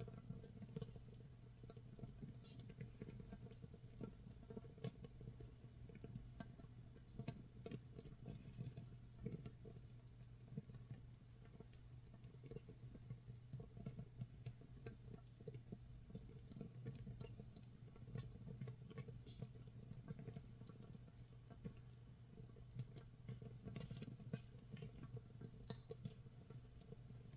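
Makgeolli starter mash fermenting in an earthenware jar, 24 hours in: carbon dioxide bubbles popping at the surface in a faint, dense, irregular crackle, like rain or roasting scorched rice. A steady low hum runs underneath.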